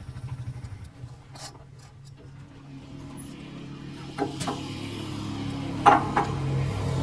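A motor running with a steady low hum that grows louder in the second half, with a few sharp metallic clinks about four and six seconds in; the one near six seconds is the loudest.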